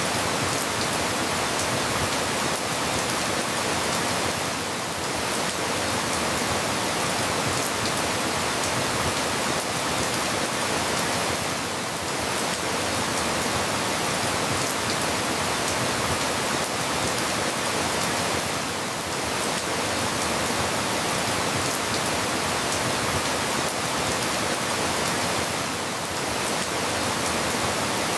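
Steady rain falling, an even hiss with a brief slight dip in level about every seven seconds.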